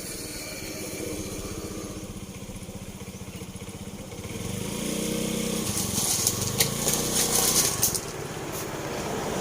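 A small vehicle engine running, its pitch rising about halfway through as it speeds up, with a spell of crackling noise over it near the end.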